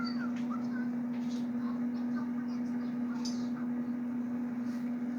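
A steady low hum, like a household appliance or fan, runs throughout. A baby makes a few faint brief vocal sounds near the start, with a few soft taps later.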